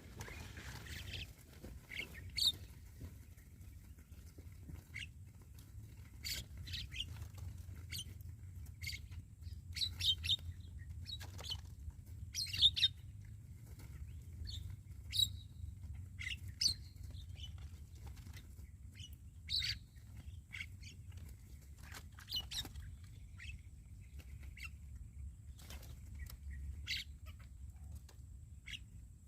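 Javan mynas (jalak kebo) calling: many short, scattered chirps and squawks, some louder and closer than others, over a steady low rumble.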